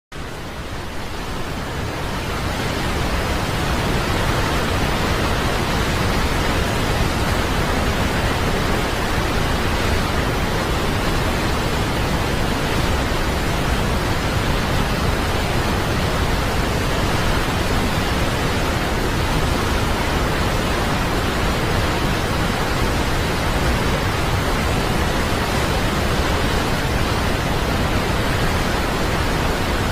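Steady rush of a waterfall, fading in over the first few seconds.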